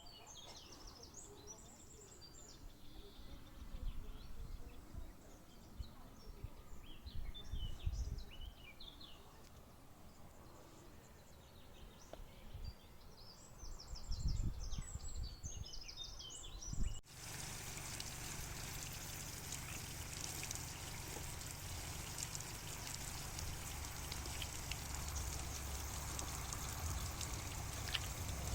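Small songbirds chirping and twittering in quick runs, mixed with scattered low rumbles. A little over halfway through the sound cuts abruptly to a steady, even hiss that covers the birds.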